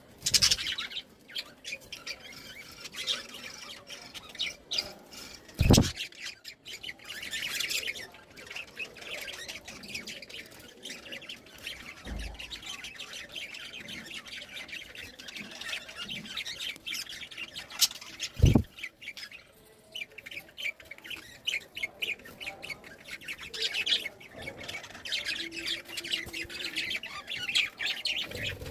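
A flock of budgerigars chattering, with a steady stream of chirps, warbles and squawks. Two dull knocks come through it, one about six seconds in and one about eighteen seconds in.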